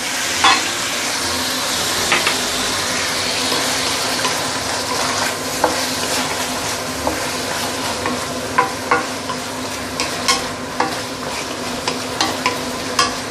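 Marinated chicken pieces sizzling in a hot stainless steel wok, the sizzle strongest in the first few seconds as Shaoxing wine goes in. A wooden spatula then stirs the chicken, with repeated short clicks and scrapes against the metal.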